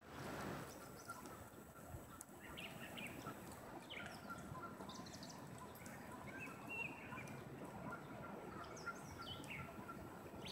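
Faint outdoor ambience with scattered short bird chirps and a brief trill, small birds calling around the lakeshore.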